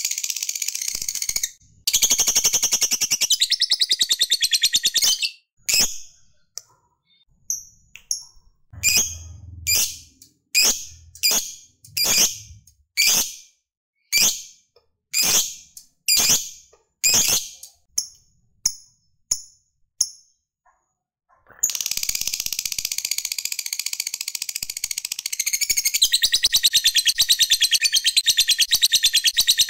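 Lovebird 'ngekek': a long, rapid, high-pitched chattering trill, which breaks off after about five seconds into a run of separate short calls roughly once a second, then resumes as a long unbroken trill for the last eight seconds.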